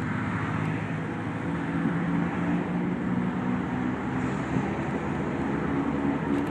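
Steady vehicle noise: an even rushing with a low engine hum, unchanging throughout.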